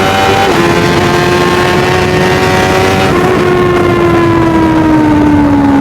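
Motorcycle engine running steadily while riding, over a haze of wind and road noise. Its pitch dips slightly about half a second in, steps up around three seconds in, then slowly falls as the bike eases off.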